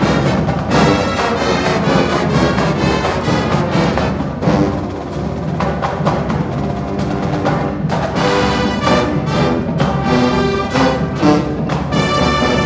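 HBCU-style marching band playing at full volume: brass horns carry the melody over a driving drumline, with regular, sharp drum hits.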